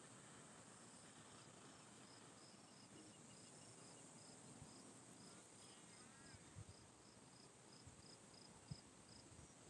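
Faint early-morning outdoor ambience: a steady high insect drone with a repeated short high chirp, about two a second, and a few soft low thumps near the end.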